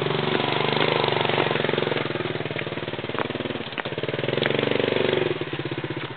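Small motorcycle engine on a dirt trail, revving up twice and dropping back, then settling into a throbbing idle near the end.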